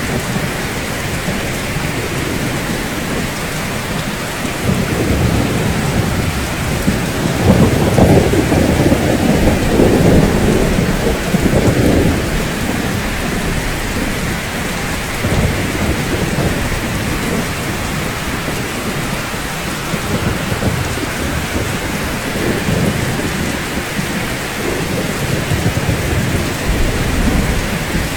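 Steady rain falling, with a long low rumble of thunder that swells about five seconds in, is loudest around eight seconds and dies away by about twelve seconds; fainter rumbles return near the end.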